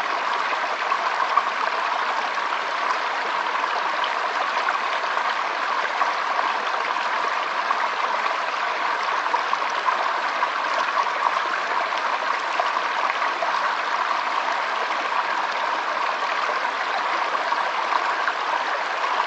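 Water of a small stream flowing, a steady rushing and burbling with no break.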